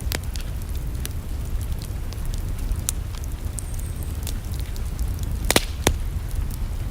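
Wood fire crackling in a fireplace: scattered sharp pops and snaps, the two loudest a little past five seconds in, over a steady low rumble.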